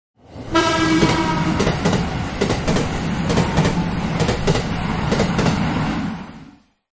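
Train running on the rails, a steady rumble with irregular clicking knocks of wheels over rail joints. A brief pitched tone sounds near the start. The sound fades in and fades out again just before the end.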